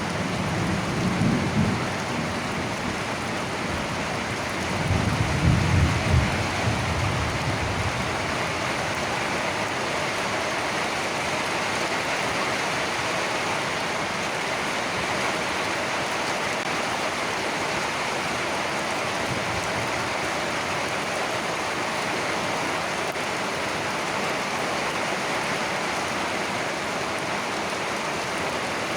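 Steady rain falling, with low thunder rumbling twice early on: briefly at the start, then louder about five seconds in, fading by around eight seconds.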